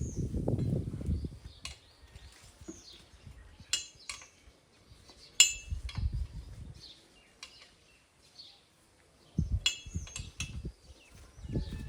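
Metal parts of a small borewell drilling rig clinking and clanking with a ringing tone, the loudest clink about halfway through and a quick cluster near the end, between dull low thumps. Faint bird chirps in the background.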